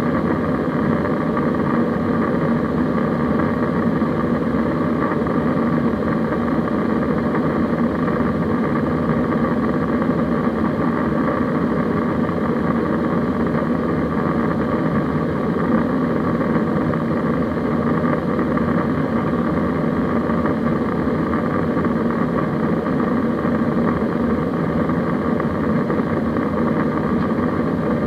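Steady drone of an Airbus A320 heard from inside the passenger cabin in flight: engine and airflow noise holding level, with a low hum and a higher rush that do not change.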